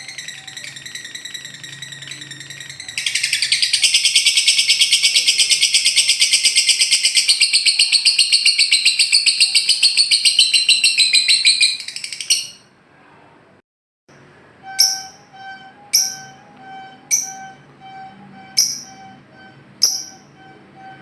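Recorded lovebird song: a long, loud, very rapid chattering trill (the 'ngekek') runs for about nine seconds. After a brief silence comes a series of short, sharp calls about once a second.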